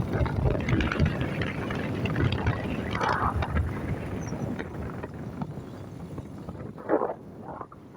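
Wind rumbling on the microphone of a moving motorcycle, with vehicle noise underneath. It eases off in the last few seconds.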